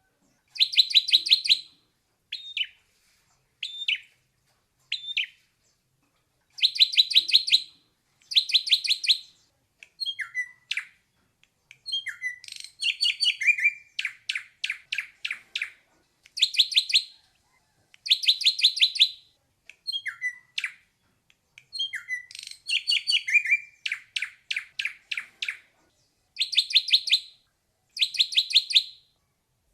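Ashy drongo singing: repeated rapid rattling phrases, each about a second long, alternating with short single whistled notes that slide down in pitch.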